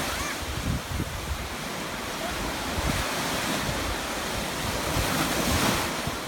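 Stormy sea surf breaking and rushing, with wind buffeting the microphone in uneven low gusts. A wave breaks louder about five seconds in.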